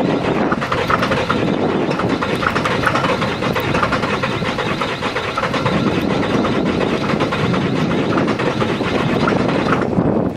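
A 7.3 L Powerstroke V8 turbo-diesel in an OBS Ford truck, running cold just after a cold start, with a steady, rapid diesel clatter.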